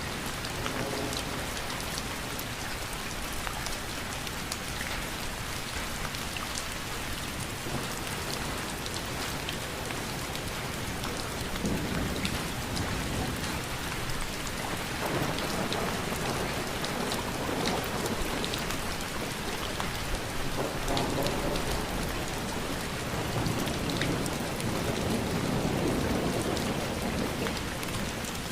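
Steady heavy rain falling, a dense hiss with many fine drop ticks. Low rumbling swells rise several times in the second half.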